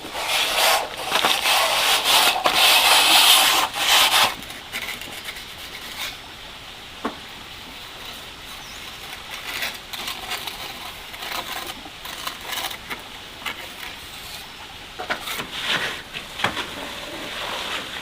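Scraping and rubbing against a hard surface. A loud, continuous stretch of about four seconds at the start gives way to lighter scattered scrapes and knocks, with another louder burst near the end.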